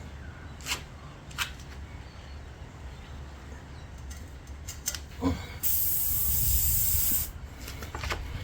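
Air hissing out of a punctured motorcycle tyre in one loud burst of about a second and a half, a little past halfway, cutting off abruptly, as the repair tool is worked in the puncture hole. Before it, a few short clicks and scrapes of the tool.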